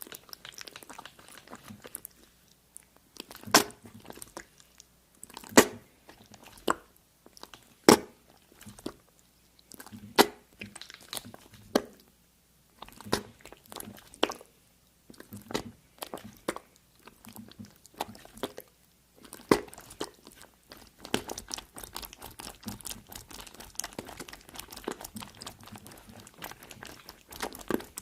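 Close-miked crunching bites and chewing. Loud single crunches come every two seconds or so, then give way to denser, softer crackly chewing in the second half.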